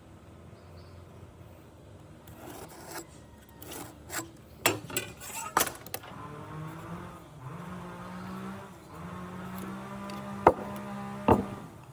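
Hand-worked wood being rubbed and scraped in a quick series of strokes with sharp scratches, then a low steady hum that rises in pitch and holds, with two sharp knocks near the end.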